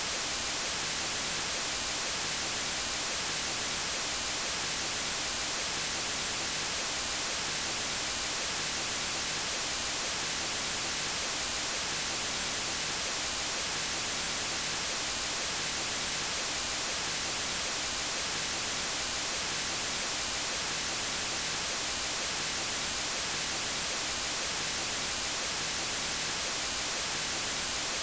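Steady white noise: an even, unchanging hiss across the whole range of pitch, brightest in the highs.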